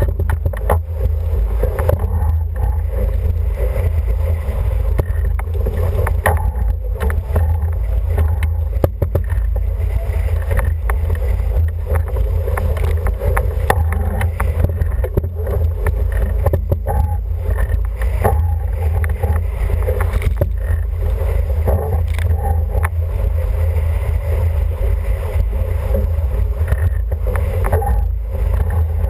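Wind rumbling on the microphone and water rushing along the hull of an International 14 racing dinghy under sail, with scattered small knocks and taps throughout.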